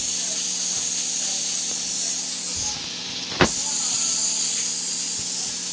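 A steady high-pitched hiss over a low hum, with a single sharp knock about three and a half seconds in, after which the hiss is louder.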